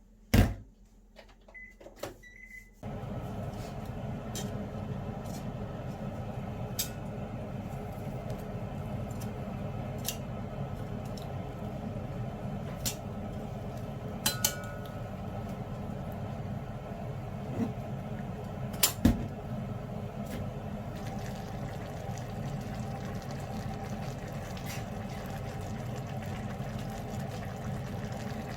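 Microwave oven being started: a sharp click, a few short keypad beeps, then a steady running hum, with a few light clicks over it.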